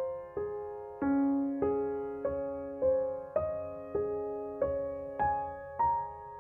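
Gentle background piano music: notes struck at an even pace, a little under two a second, each ringing out and fading before the next.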